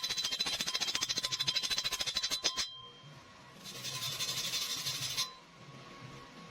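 ARCCAPTAIN MIG welder's arc crackling and hissing during a weld, stopping about two and a half seconds in. After a short pause a second, shorter burst of welding follows and cuts off suddenly, with only faint background after.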